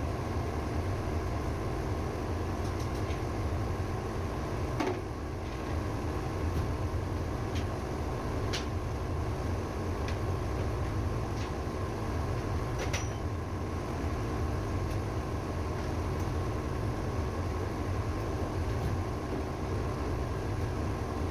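Ship's auxiliary engine running steadily, a constant low rumble, with a few sharp clicks or knocks over it.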